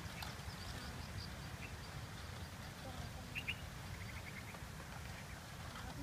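Faint bird calls: scattered short chirps, with a louder double call and a quick chattering run about three and a half seconds in, over a steady low rumble.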